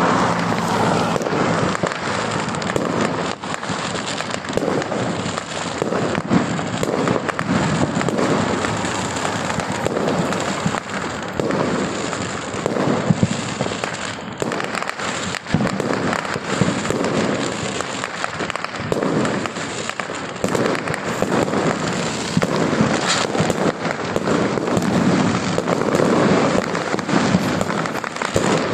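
Fireworks display: loud bangs in a rapid, unbroken barrage with no pause.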